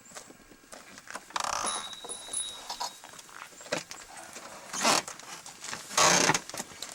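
Footsteps and handling noises with a brief metallic jingle about a second and a half in, followed by two louder rustling, scraping bursts near the end.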